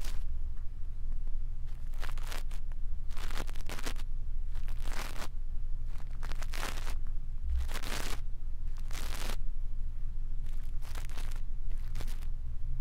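Close-up brushing and scratching strokes on an ASMR microphone, as in brush ear cleaning: short, irregular swishes about once a second over a steady low hum.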